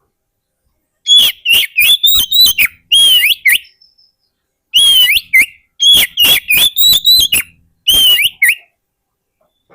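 Oriental magpie-robin (kacer) singing: rapid strings of loud whistled notes that sweep up and down, in three phrases starting about a second in, with a short pause near the middle.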